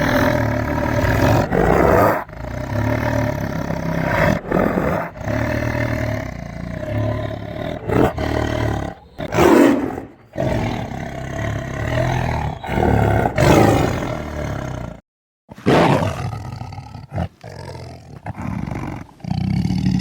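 Tiger roaring over and over, a string of long, rough roars with short breaks between them. The sound cuts off abruptly a few times, the longest gap just after the middle.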